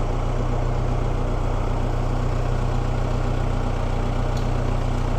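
Tractor diesel engine running steadily at low revs as the tractor creeps into a tight spot in the shed.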